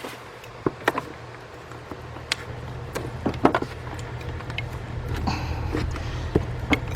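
Scattered clicks, knocks and a short rustle as a rubber hose and engine-bay parts are handled and pushed into place, over a steady low hum.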